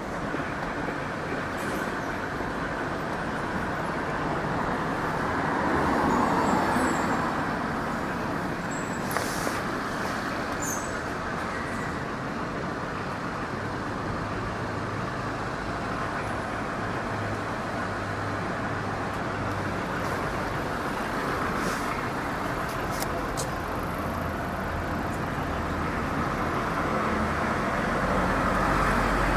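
Steady street traffic noise, with a faint low hum that grows a little louder near the end.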